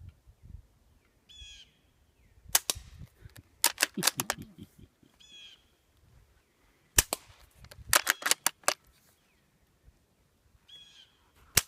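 Suppressed gunshots: a single shot, then a quick string of several, then another single shot and a longer quick string, and one more shot near the end.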